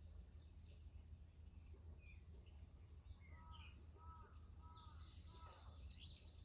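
Faint birdsong: several birds chirping, with one bird giving four short, evenly spaced calls about halfway through, over a low steady rumble.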